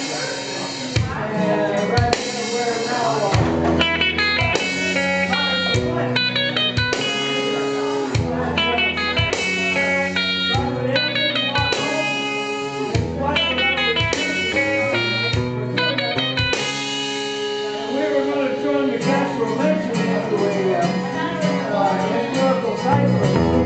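Rock band playing an instrumental passage with no singing: a guitar riff over a bass line and drums.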